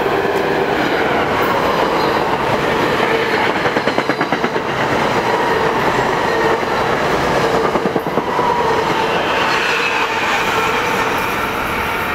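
New Jersey Transit electric commuter train passing on the Northeast Corridor at speed: a steady rolling rumble with faint wheel squeal, and a run of clickety-clack as the wheels cross rail joints about four seconds in.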